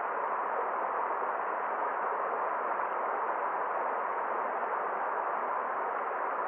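A forest stream's flowing water makes a steady, even rush, with no splashes or other sounds standing out.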